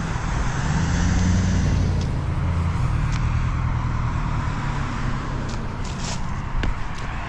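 Street traffic: a motor vehicle's engine rumble swells about a second in and eases off over the next few seconds, over steady road noise.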